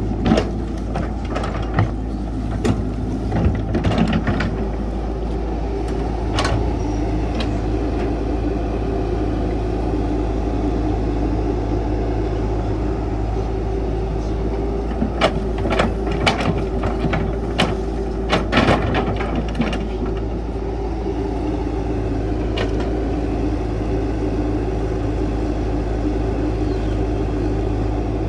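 Caterpillar 312 excavator's diesel engine running steadily under work. Sharp clanks and knocks from the machine working the soil come in clusters in the first few seconds and again around the middle.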